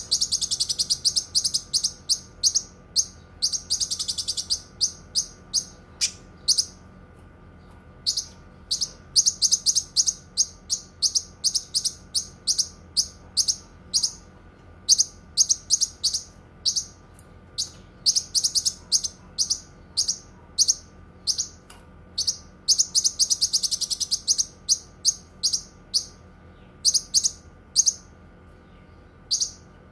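Cucak kinoi singing: long runs of sharp, high chirps repeated several times a second, breaking into denser rapid trills a few times, with short pauses of a second or two between runs. A faint steady hum sits underneath.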